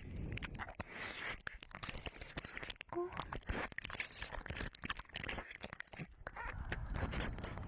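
Close, wet ear-licking and mouth sounds on a binaural dummy-head microphone: irregular smacks, clicks and slurping, with a short tone about three seconds in.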